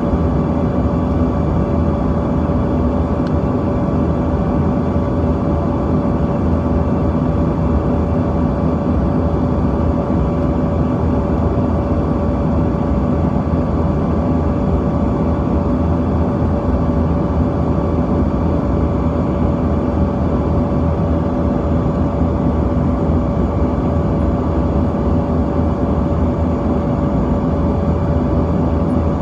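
Steady cabin drone of a Bombardier CRJ-200's two rear-mounted GE CF34 turbofans in flight: a dense rushing noise with a few constant whining tones held at one pitch throughout.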